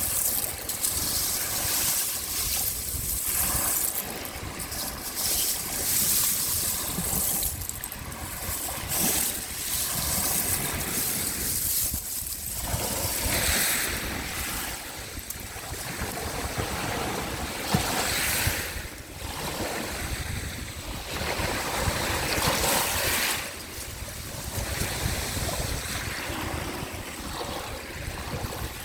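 Sea waves washing onto the shore, coming in as repeated surges of hiss every second or two over a steady low rumble.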